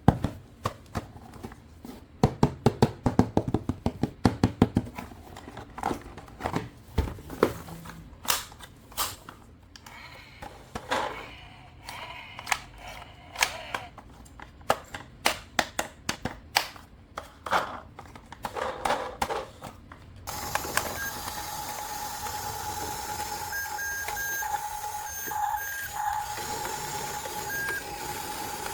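Hard plastic toy pieces clicking and tapping as they are handled. About two-thirds of the way in, a battery-powered toy switches on with a steady electronic whir, a held tone and short repeated beeps.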